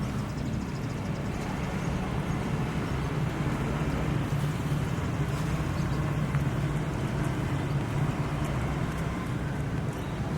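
A steady low engine hum with a constant background rumble and no clear changes.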